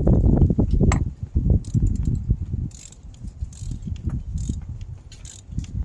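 Ratchet wrench clicking in irregular strokes as a spark plug is tightened. A loud low rumble during about the first second drops away after that.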